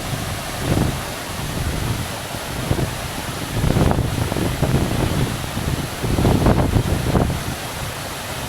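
Steady rush of a large waterfall close by, with gusts of wind buffeting the microphone in low rumbles, strongest about three and a half seconds in and again around six to seven seconds.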